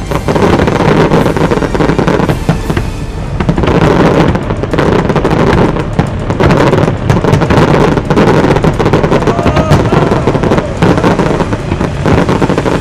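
A dense barrage of aerial firework shells bursting in rapid succession, with the display's music playing underneath.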